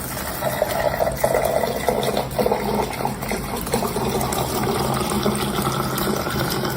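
Running water, a steady rush.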